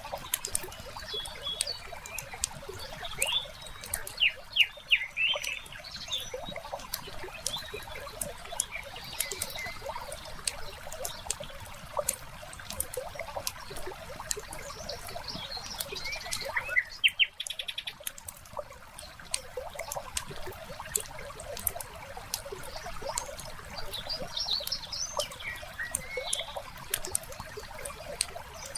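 Fireplace crackling with many small sharp pops, under trickling water, while songbirds chirp in short bursts every few seconds.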